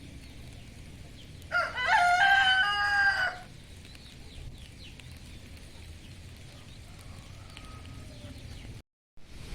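A rooster crowing once, a single call of about two seconds starting a second and a half in, over a low steady background.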